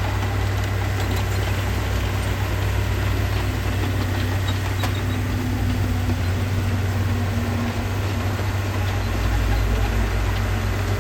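Heavy diesel engine of earthmoving machinery running steadily with a deep, even drone, getting a little louder about nine seconds in.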